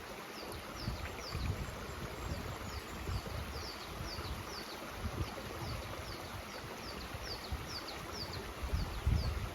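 Mountain stream rushing steadily, with a bird calling in a rapid series of short, high, falling chirps, about two to three a second. Low rumbling bumps come and go, strongest near the end.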